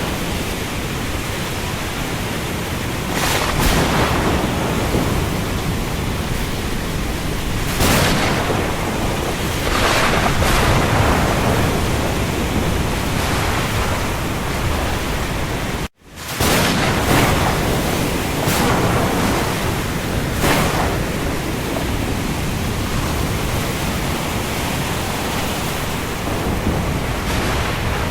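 Steady rain falling on the sea, a loud even hiss with waves surging up every few seconds. The sound cuts out for an instant about sixteen seconds in, then picks up again.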